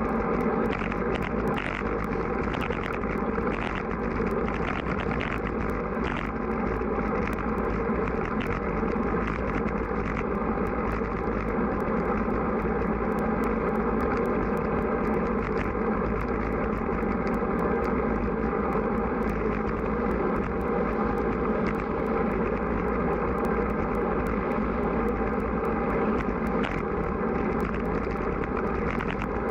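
Strong wind rushing over the microphone of a camera on a moving road bike: a steady, loud noise with a constant faint crackle.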